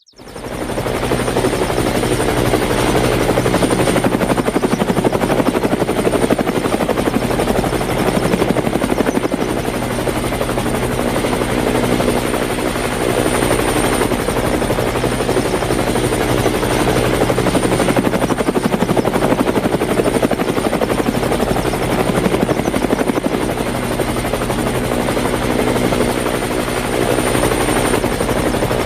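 Continuous helicopter sound, rotor and engine, starting suddenly and holding steady and loud.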